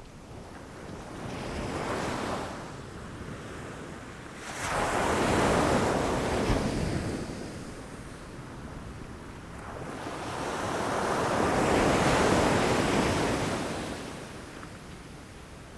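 Ocean waves breaking against rocks: the surf swells and falls away in three surges, the second and third loudest, about every four to six seconds, with wind noise beneath.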